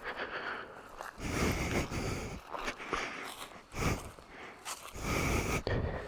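Heavy breathing close to the microphone, a series of long breaths about a second apart.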